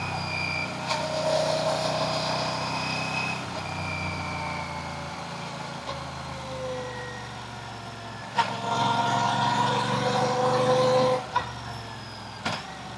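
Royal Enfield Classic 650's parallel-twin engine running on the move. The revs fall slowly over the first few seconds, climb again from about eight seconds in, and drop off near eleven seconds, with a few sharp knocks along the way.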